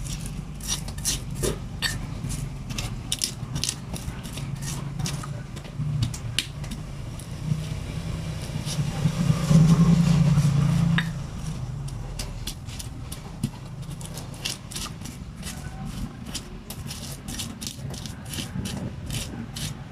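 Pestle grinding spices against a mortar (Indonesian ulekan and cobek), making repeated short scraping and knocking strokes. A low hum underneath swells about nine seconds in and drops away about two seconds later.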